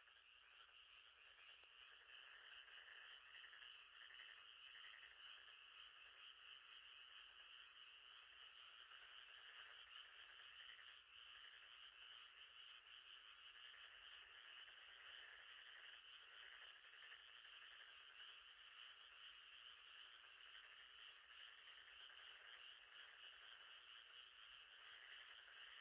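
Faint, continuous night chorus of frogs calling over one another, a dense high trilling with a pulsing lower layer. It fades in over the first couple of seconds.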